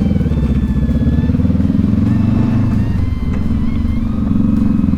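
Adventure motorcycle engine running at low revs as the bike is ridden, its note wavering slightly with a brief dip about three seconds in.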